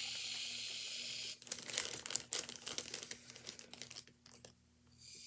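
Barbasol shaving cream hissing out of its aerosol can for about a second, then a plastic baggie crinkling and rustling in the hands as the foam goes in. The hiss starts again near the end.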